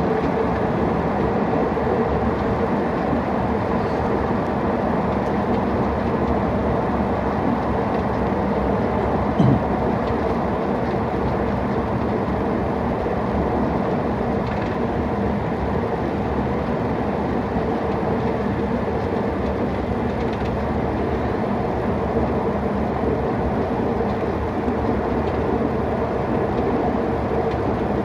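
Steady cabin noise inside a jet airliner: the even rumble of engines and airflow with a constant hum through it, and one brief knock about nine and a half seconds in.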